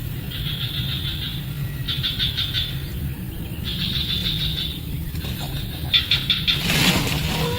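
Nestling birds begging: bursts of rapid, high-pitched chirping every second or so, over a steady low rumble, with a brief rustling burst near the end.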